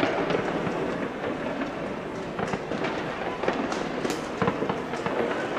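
New Year's Eve fireworks: many rockets and firecrackers going off at once across the city, a dense, continuous crackle with sharp pops and bangs scattered all through it.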